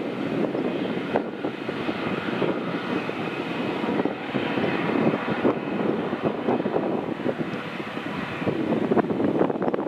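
Jet airliner engines running, a steady rough noise with a crackling texture and a faint high whine.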